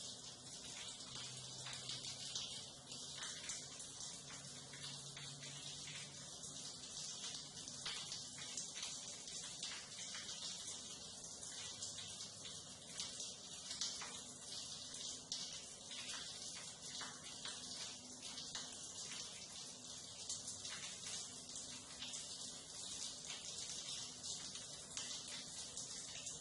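Water running and splashing through a sewer drain or gully: a steady, dense hiss with fine crackling trickles.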